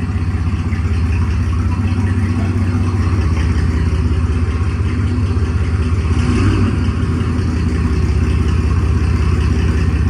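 Truck engine running through its exhaust: a steady, deep, pulsing rumble, with a brief rise about six seconds in.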